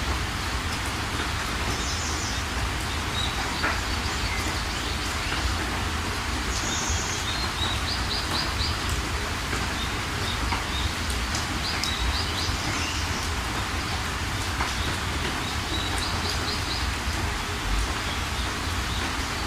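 Steady rain, with small birds chirping in short high trills every few seconds over it.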